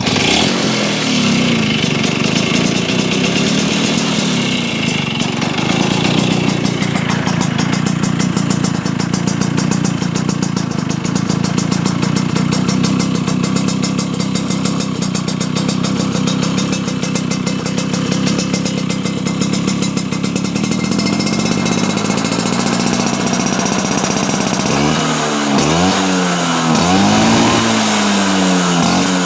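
Vespa scooter engine idling steadily through an aftermarket R27 left-exit exhaust, then blipped a few times in quick succession near the end, the pitch rising and falling with each rev.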